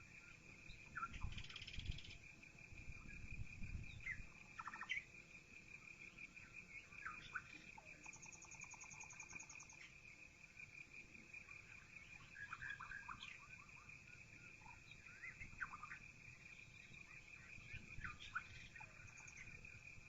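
Faint birdsong: several birds chirping and calling at intervals, with a short high trill about halfway through, over a steady high-pitched tone.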